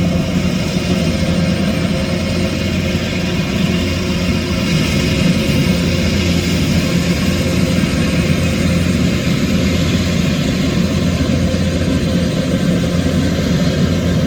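Rice combine harvester's engine running loudly and steadily, a constant low drone that does not rise or fall.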